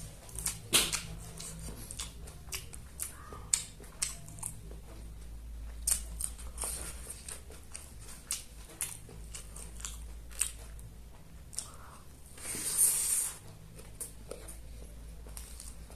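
A person chewing and biting food close to the microphone: wet chewing with many short crunches and clicks. About three-quarters of the way through there is a louder noisy burst lasting about a second.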